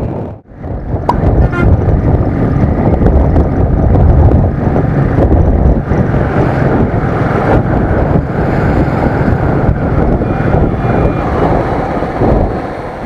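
Riding a motorcycle in traffic: wind rushing over the microphone with engine and road noise underneath, dropping away briefly just after the start.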